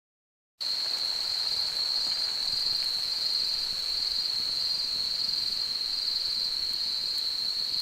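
Insects trilling in a steady, high-pitched chorus with a slight regular pulse, cutting in abruptly about half a second in.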